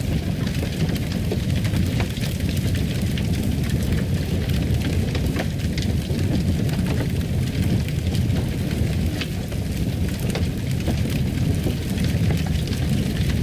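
Wood fire in a fireplace burning with a steady low rumble, sprinkled with small irregular crackles and pops.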